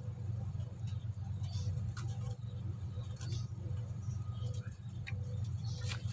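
Faint rustling and scattered small ticks from hands working braided fishing line, over a steady low hum.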